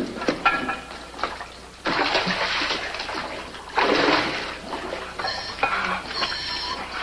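Water splashing and bubbling in surges about a second long, as a diver goes into the flooded mine water.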